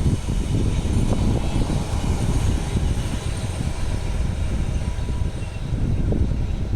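Freight train rolling past, a steady loud rumble of wagons on the rails.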